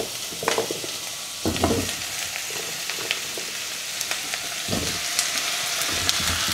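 Butternut squash cubes and shallots sizzling in olive oil in a stainless steel saucepan, a steady hiss that grows a little louder toward the end. A few dull knocks as the pan is handled, and a wooden spatula stirring near the end.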